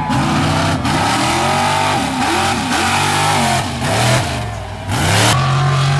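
Mud truck engine revving hard, its pitch rising and falling over and over.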